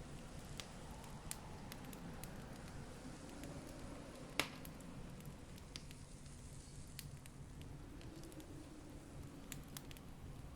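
Campfire crackling, with scattered sharp pops of burning wood and one louder pop about four seconds in, over a low steady rumble.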